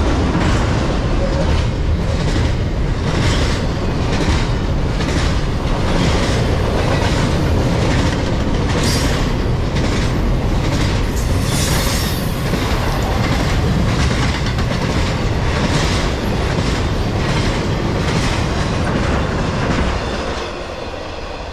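Norfolk Southern double-stack intermodal freight train passing at about 50 mph: a steady rumble of steel wheels on rail with a rhythmic clickety-clack, a little under two clacks a second. About 20 seconds in the sound drops as the last cars go by.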